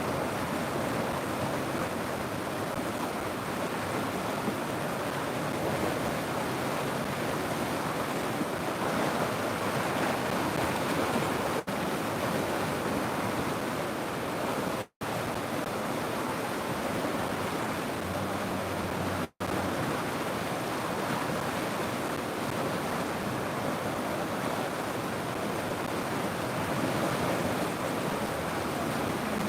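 River water rushing steadily, an even unbroken rush that cuts out to silence for an instant twice, about halfway through.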